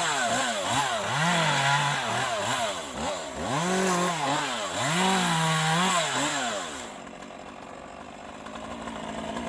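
Two-stroke chainsaw revving up and dropping back again and again, about six times, as it cuts limbs, then falling away about seven seconds in.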